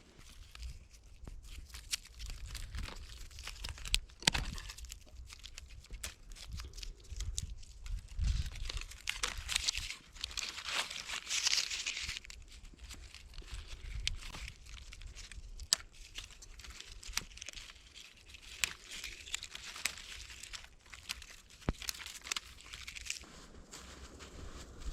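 Irregular crinkling and crunching handling sounds with many small sharp clicks and snaps.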